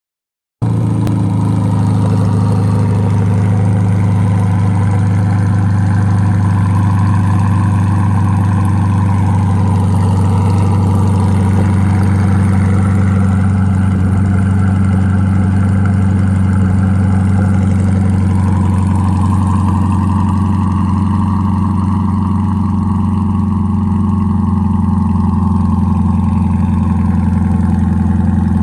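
C8 Corvette V8 cold-starting through a LeMans Edition TRACK center-exit catback exhaust. It starts about half a second in and then holds a loud, steady idle.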